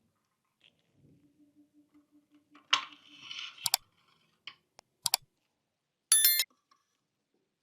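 Small hard parts clicking and knocking at close range: a sharp click followed by about a second of scraping, then several single clicks, and a short harsh buzz near the end.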